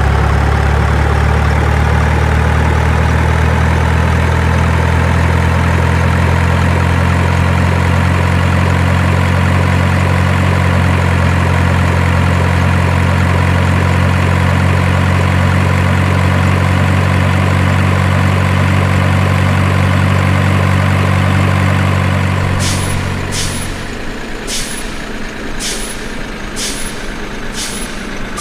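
Heavy truck engine running steadily, its pitch creeping slowly upward. About 23 seconds in the engine drops away, and a series of sharp clicks follows, a little over one a second.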